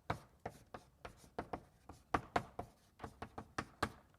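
Chalk tapping and clicking against a blackboard while writing: a quick, irregular run of sharp taps, about four a second, stopping near the end.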